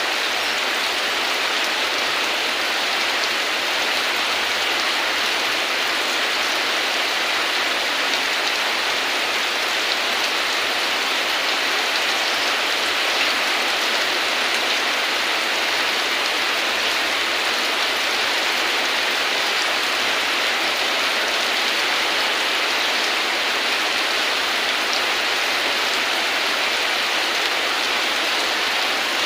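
Steady heavy rain falling, an even patter that does not change.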